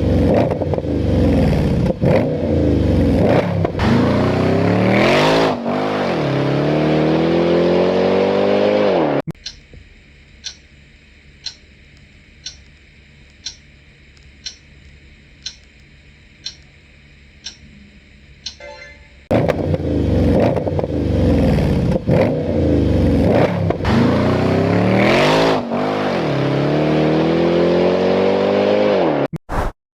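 Jaguar XFR's supercharged V8 revved again and again, its pitch climbing with each rev. About nine seconds in it gives way to some ten seconds of much quieter, regular ticking at about one tick a second, and then the same revving returns.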